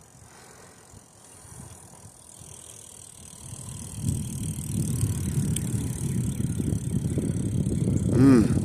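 Riding noise from a bicycle on a trail: fairly quiet at first, then from about four seconds in a loud, uneven low rumble.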